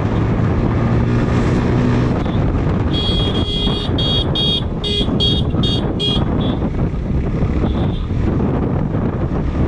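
Steady engine and road noise from a moving motorcycle. About three seconds in, a high-pitched horn sounds one longer blast and then about six short quick toots.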